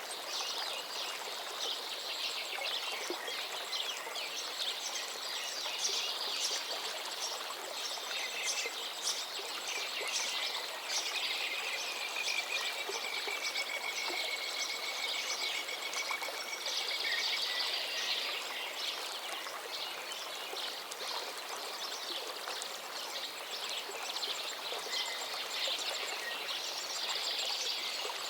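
Forest river flowing steadily, with songbirds singing over it throughout. One long, slightly falling whistled note runs through the middle.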